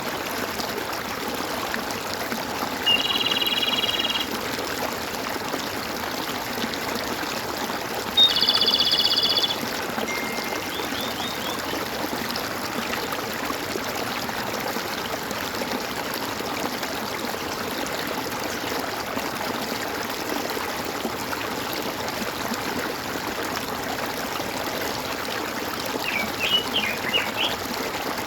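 Steady stream water trickling and gurgling, with birds calling over it: two held, high calls about a second long, around three and eight seconds in, and a quick run of chirps near the end.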